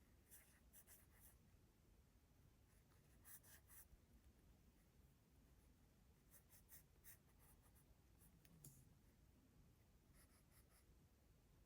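Faint scratching of a drawing tool on Moleskine sketchbook paper, in short quick strokes that come in several brief clusters with pauses between them.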